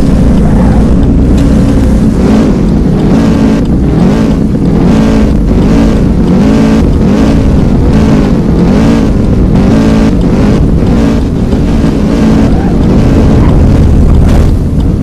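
Loud engine noise with pitch rising and falling repeatedly as the engine is revved, with wind buffeting the microphone.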